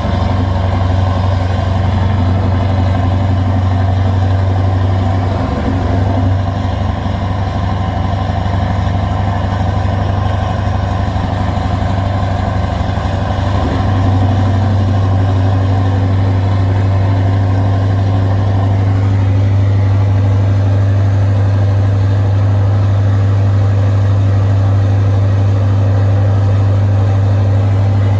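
Scania R560 V8 diesel truck engine, remapped to 690 hp, running loud and steady under heavy load on a climb, with a brief shift in its note about 14 seconds in.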